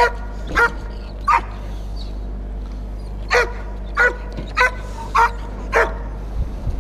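Guard dog barking in short barks, each dropping in pitch: three in the first second and a half, then after a pause a run of five about half a second apart. A steady low hum runs underneath.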